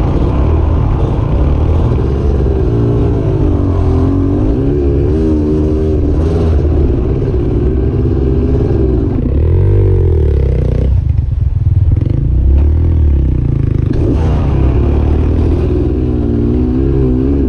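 Dirt bike engine revving up and down as it is ridden through a rocky river, with some clattering. About eleven seconds in the revs drop away, and they pick up again about three seconds later.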